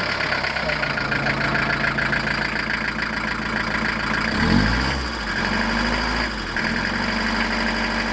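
Van engine idling on its first run after a new timing belt was fitted, with a short rev and drop back to idle about four and a half seconds in.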